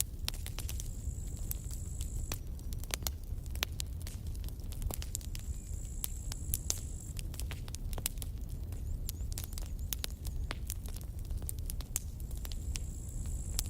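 Campfire burning: wood crackling with frequent sharp pops over a low steady rumble of the flames. A thin high whine sounds three times, for a second or two each.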